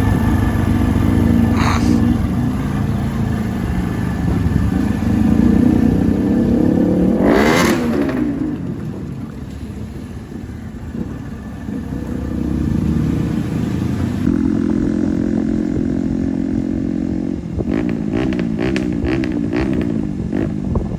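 Bajaj Pulsar NS200's single-cylinder engine running loud through an aftermarket Akrapovic exhaust, idling with a quick throttle blip about a third of the way in. A few sharp cracks come from the exhaust near the end.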